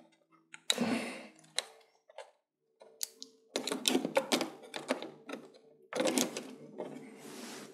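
Handling noise from fitting plastic television parts by hand: a run of light clicks and knocks with rustling, a short quiet pause about two seconds in, then more clicking and rubbing.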